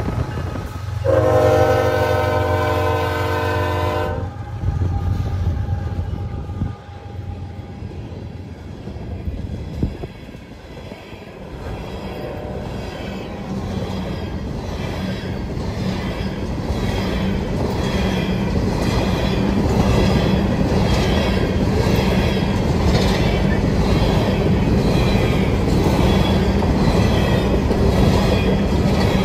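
CSX diesel locomotive passing, its horn sounding one chord blast of about three seconds over the engine's drone. Then a long string of empty coal hopper cars rolls by with a steady rumble that builds, and rhythmic clicking of wheels over rail joints.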